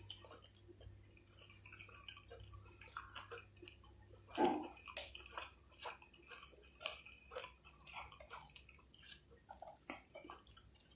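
Close-miked chewing and mouth sounds of someone eating: many short, irregular wet clicks and smacks, with one louder bite about four and a half seconds in.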